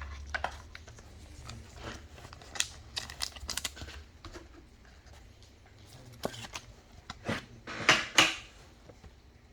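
Trading cards and their packaging being handled: scattered light slides, taps and crinkles, with a cluster about three seconds in and the loudest near the end.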